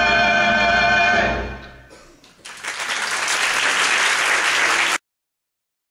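Recorded music holding its final chord, which fades away over about a second. Then an audience breaks into applause about two and a half seconds in, and the sound cuts off abruptly about a second before the end.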